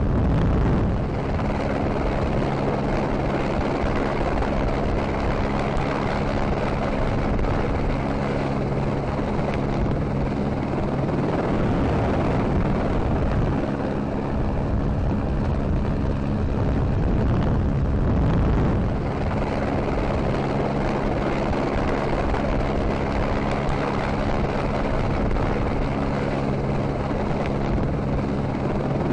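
A steady engine drone holding one pitch, breaking off briefly about eleven seconds in and again near eighteen seconds, then returning at the same pitch.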